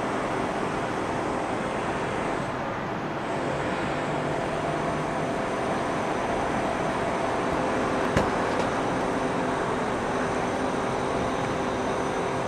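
Steady city traffic noise, a continuous hum and rush of road vehicles with a few faint steady tones in it, broken by one sharp click about eight seconds in.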